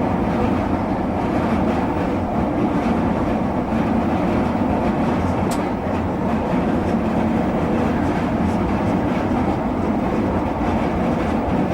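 Merseyrail Class 508 electric multiple unit running, heard from the driver's cab: a steady rumble of wheels on rail and traction equipment with a low hum, and a single brief click about five and a half seconds in.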